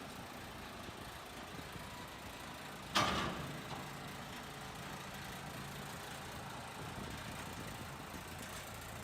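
A steady low hum with one sharp knock about three seconds in, which rings briefly and fades.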